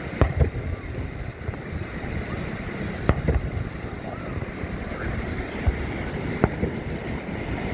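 Fireworks going off: several sharp bangs at irregular intervals, over a steady low rumble of wind on the microphone.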